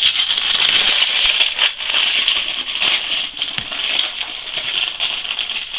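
Hot Wheels mystery-pack packaging crinkling and crackling with many small clicks as it is handled and torn open.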